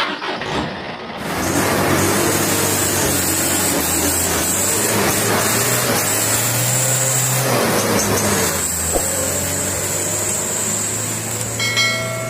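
A truck engine running steadily with a low hum and a broad mechanical noise over it. A bell-like ringing chime starts just before the end.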